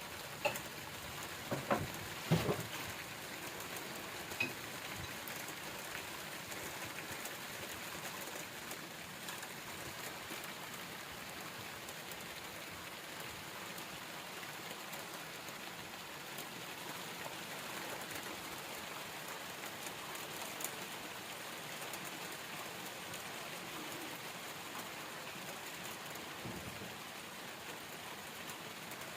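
Heavy rain falling steadily in a thunderstorm, an even hiss of rain on surfaces. A few sharp knocks of drops hitting something come in the first couple of seconds.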